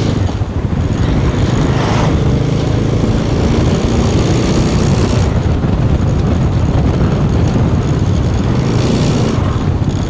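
Motorcycle running steadily while being ridden at speed, its engine sound mixed with a heavy, fluttering rush of wind and road noise.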